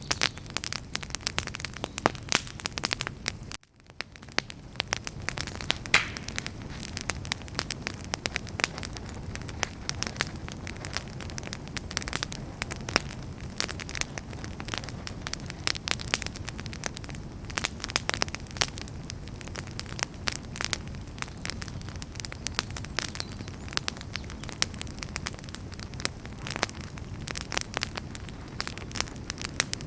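Campfire of burning firewood crackling steadily, with dense irregular pops and snaps over a low hiss of flame. There is a brief dropout about three and a half seconds in, and then the crackling resumes.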